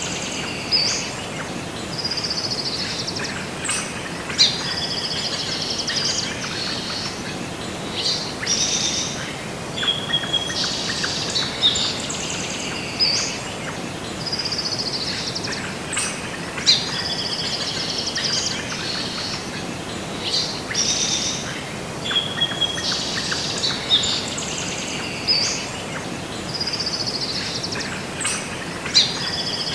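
Songbirds chirping and singing in short phrases, repeating every second or two, over a steady background hiss.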